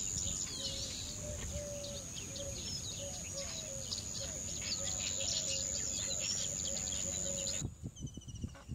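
Many birds calling at once, a dense mix of short chirps and calls, over a low rumble of wind and a steady high-pitched whine. The sound cuts off abruptly near the end.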